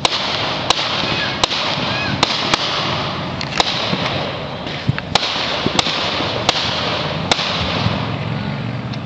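Fireworks going off around a neighborhood: about a dozen sharp cracks and bangs at irregular intervals, over a steady background hiss.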